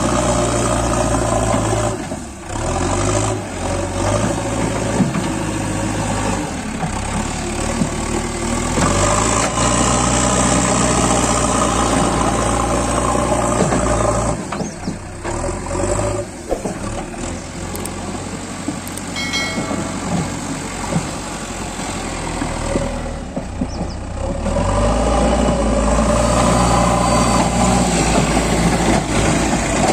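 Diesel engine of a JCB 3DX backhoe loader running steadily, its engine note changing a few times, with dips about two seconds in, around the middle, and again near the end.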